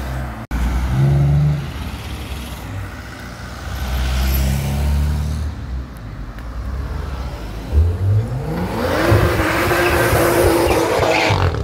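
BMW coupe engine accelerating hard as the car passes close by. The note runs low at first, then climbs steeply in pitch about two-thirds of the way through and holds high as the car goes by, loudest near the end.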